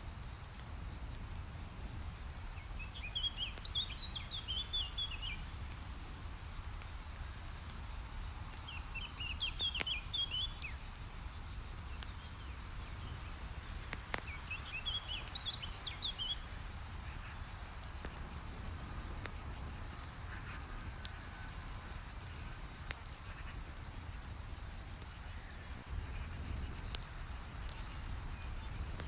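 Campfire crackling with scattered sharp pops over a low steady rumble, while a songbird sings a short warbling phrase about every five or six seconds through the first half.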